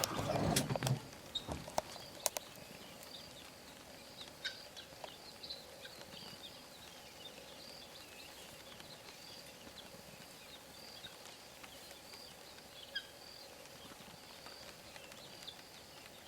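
Faint chirping of small birds: a short high call repeating about once a second, with scattered other twitters over a quiet steady background. A few sharp clicks in the first couple of seconds.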